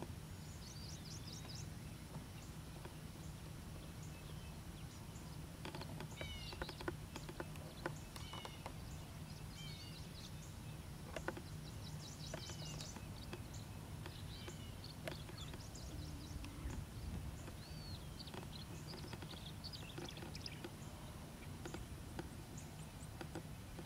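Wild songbirds calling and singing: scattered short high chirps, quick trills and slurred whistles, some falling and one looping up, over a steady low rumble.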